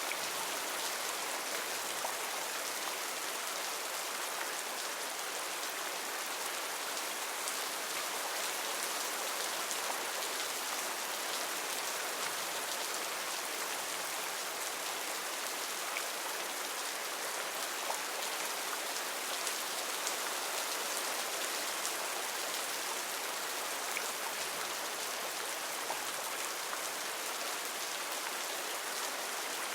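Heavy rain falling steadily on foliage, a constant hiss with scattered individual drop impacts.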